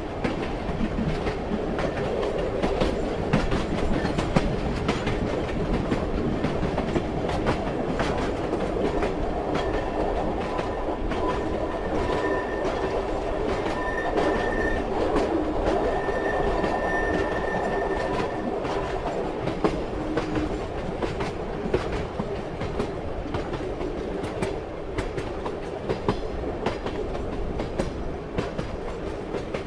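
Train running along the track, its wheels clattering over rail joints with a steady rumble. A faint thin squeal of the wheels comes in about ten seconds in and fades out near the twentieth second.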